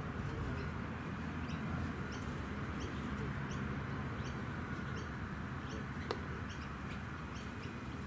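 A bird calling with a short, high chirp about twice a second, over a steady low background rumble, with a single sharp knock about six seconds in.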